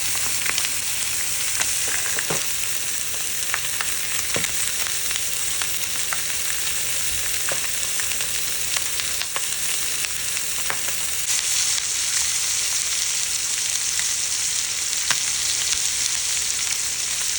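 Food frying in a hot pan: a steady sizzle with scattered crackles and pops of spattering fat.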